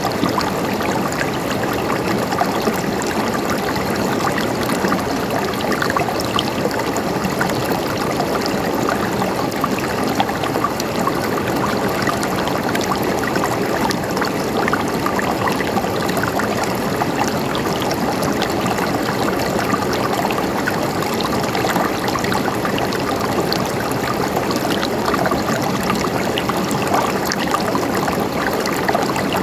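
Mountain stream babbling and trickling steadily over rocks, a dense even gurgle with many small splashes.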